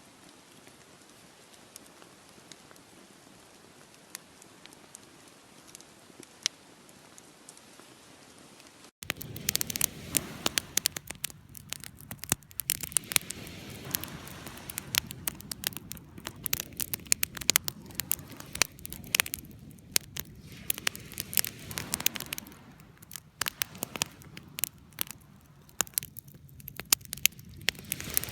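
Wood fire crackling: a faint hiss with occasional pops, then, after a sudden cut about nine seconds in, much louder, dense crackling with many sharp pops.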